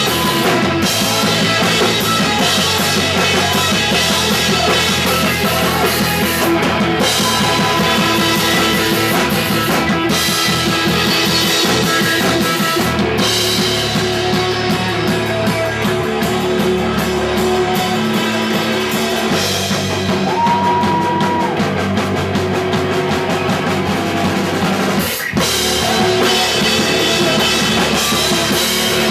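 Live punk rock band playing: distorted electric guitars, bass and a full drum kit, loud and dense, with a brief break about 25 seconds in before the band crashes back in.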